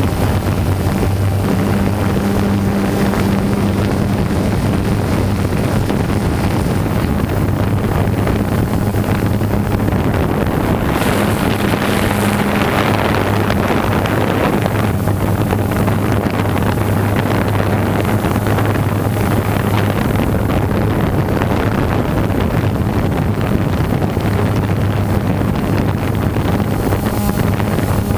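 DJI Phantom 2 quadcopter's motors and propellers humming steadily, heard from the GoPro on its own gimbal, with wind buffeting the microphone. A louder rush of wind noise comes through around the middle.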